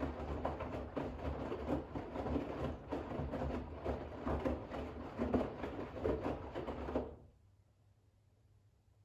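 Bosch WAX32GH1 washing machine drum tumbling wet towels in rinse water: irregular swishing and thudding over a low motor hum. It stops abruptly about seven seconds in as the drum comes to rest.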